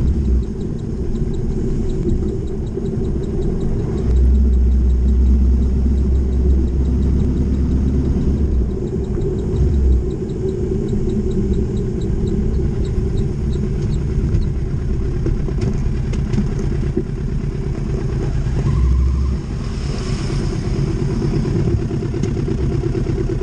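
Motorcycle engine running under way on the road, its note shifting as it pulls. A deep low rumble swells for a few seconds about four seconds in and again briefly later.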